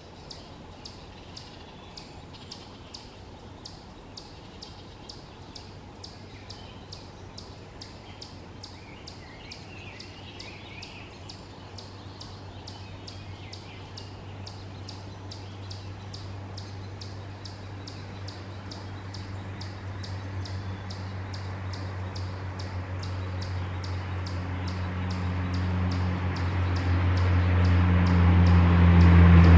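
Faint bird chirps over an even, high ticking about three times a second, while a road vehicle's engine hum rises steadily and becomes the loudest sound over the last ten seconds as it approaches.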